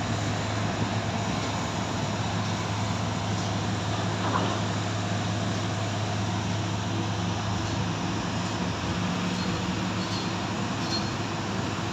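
Heavy machinery engine running steadily with a low, even hum, with no rhythmic pile-driving blows.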